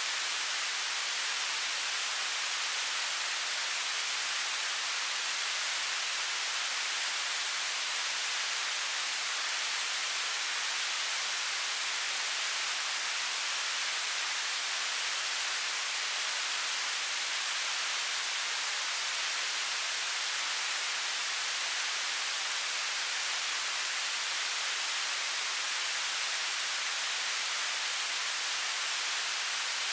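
Television static: a steady, even hiss, strongest in the high range and thin in the lows, with no breaks or changes.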